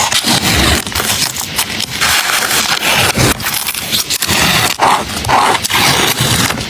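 Paper and stickers being handled for a journal layout: continuous crinkly rustling and scraping with many small clicks, and brief tearing or peeling sounds about five seconds in.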